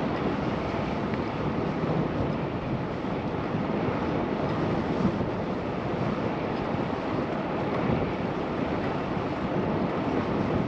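Steady wind noise rushing over the camera microphone while cycling, an even rush with no distinct events.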